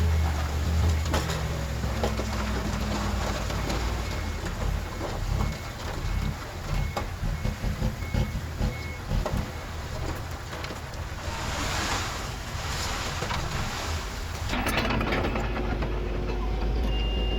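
Heavy diesel earthmoving machinery running, with a reversing alarm beeping steadily through the middle stretch. The engine note changes and strengthens about two-thirds of the way in, and a higher-pitched backup beeper starts near the end.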